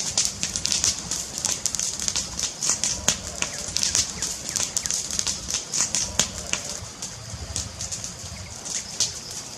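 Wood fire crackling steadily, with a dense run of sharp pops and snaps over a hissing bed.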